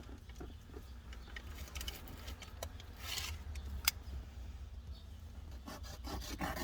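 Small clicks and rustles of a knife being picked up and handled, with one sharp click about four seconds in, over a steady low hum.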